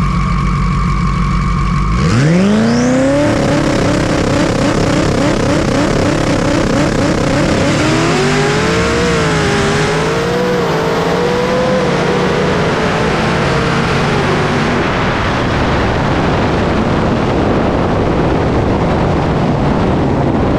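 Onboard sound of a high-powered vehicle in a street drag race. The engine holds a steady note, then goes to full throttle about two seconds in, its pitch climbing fast with a high rising whine. It steps up through gear changes over heavy wind and road noise.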